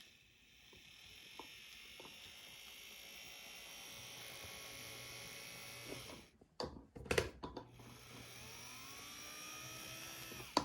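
Faint, high-pitched whine and low hum from the small electric motor of a Kato N-scale Norfolk Southern locomotive running at low speed: the odd running sound that the owner cannot explain. The whine drops out briefly in the middle with a few sharp clicks, and its pitch rises near the end.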